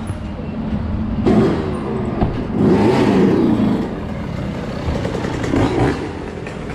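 Motor vehicle engine revving, swelling up about a second in and again more strongly around three seconds in, over a steady running rumble.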